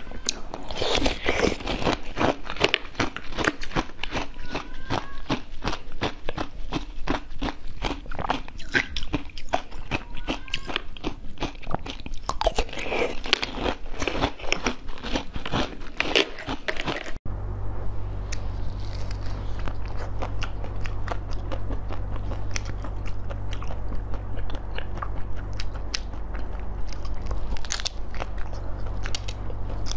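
Close-miked biting and crunchy chewing of blue jelly popsicles taken from a silicone mould, with many quick crackles. About 17 s in, after a cut, softer biting and chewing of a purple-coated treat over a low steady hum.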